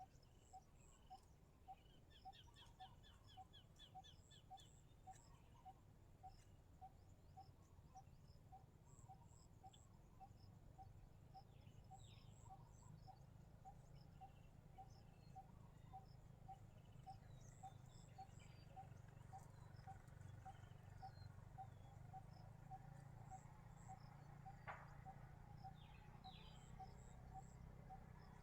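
Faint outdoor animal sounds: a soft call repeating steadily about twice a second, with scattered high bird chirps and a brief rapid trill a few seconds in.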